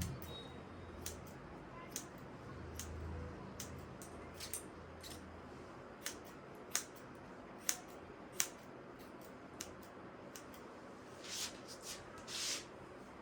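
Hair-cutting scissors snipping through hair in irregular single snips, about one every second or so. Near the end come two longer, louder noisy sounds of about half a second each.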